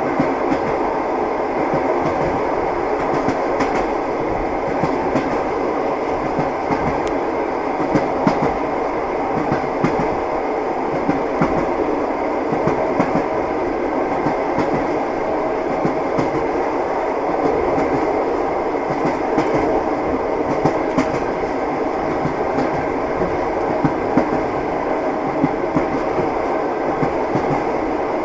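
Train wheels knocking over rail joints, heard from inside a moving passenger carriage: a steady rumble with irregular sharp clicks and knocks.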